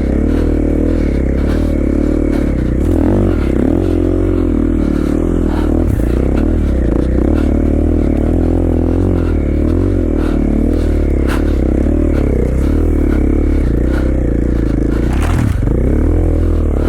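KTM 450 XC-F dirt bike's single-cylinder four-stroke engine running under load in deep snow, revs rising and falling continuously, with a few sharp knocks.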